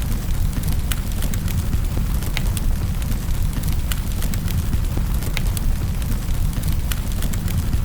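Wood fire crackling in a fireplace, with scattered sharp pops, over a steady low rumble and the even hiss of rain.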